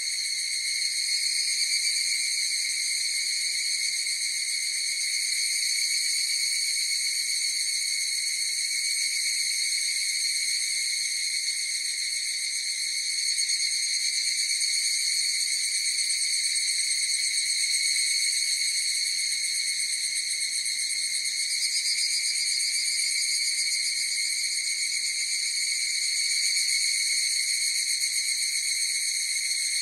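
A chorus of higurashi (evening cicadas, Tanna japonensis) calling: a steady, high, ringing insect drone that swells and eases slightly in loudness.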